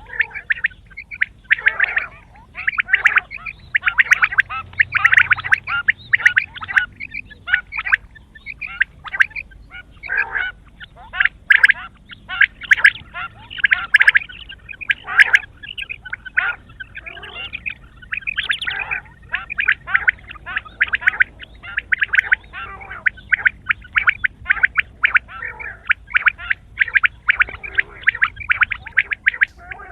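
Quail calling over and over: rapid runs of short, sharp notes, one run after another with brief gaps.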